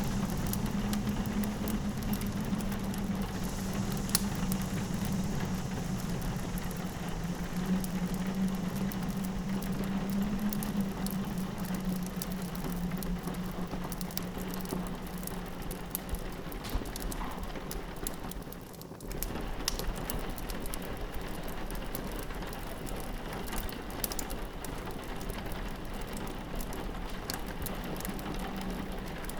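Wood fire crackling with sharp pops, layered with steady rain pattering on a window glass. A low wind drone sits underneath and fades out about halfway through.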